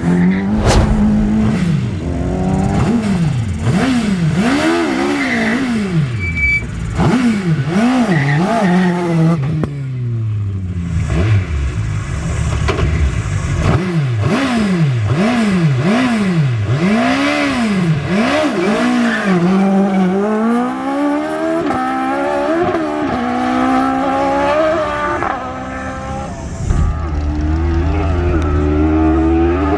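Motorcycle-derived Suzuki Hayabusa (GSX1300R) inline-four in a Toyota KP61 Starlet being driven hard, its pitch sweeping up and falling back again and again as the revs climb and drop between corners and gear changes.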